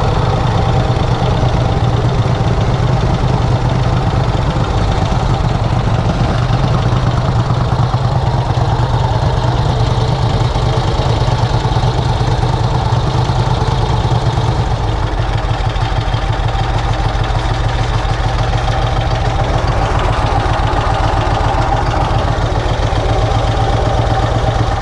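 1951 Vincent Rapide's 998 cc V-twin engine running steadily at low engine speed, with an even beat. The sound shifts slightly about fifteen seconds in.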